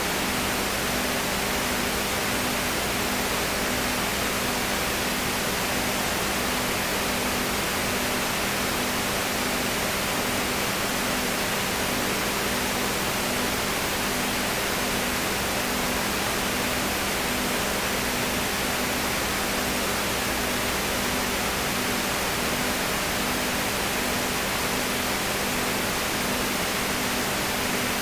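Steady hiss with a low hum and a faint pulsing tone beneath it, unchanging throughout.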